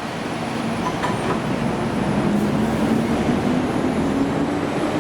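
Light rail tram running past, growing louder over the first two seconds and then holding, with a low hum under the rolling noise.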